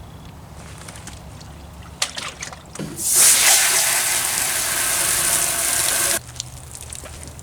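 Water gushing hard for about three seconds, starting and stopping abruptly, after a few light knocks and clatters.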